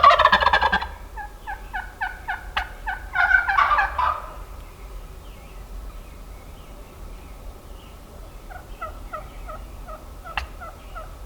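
Rio Grande wild turkey gobbling: a loud rattling gobble at the start, another built up from quick repeated notes about three to four seconds in, then fainter gobbling near the end.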